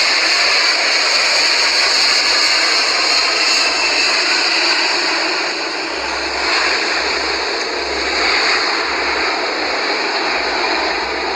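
Jet airliner engines running: a loud, steady noise with a high whine held over it, easing off slightly about halfway through.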